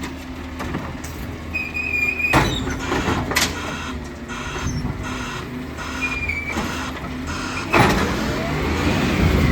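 Refuse truck running with a steady engine hum, broken by three loud crashes: about two seconds in, again a second later, and near the end. Brief high whines are heard between them.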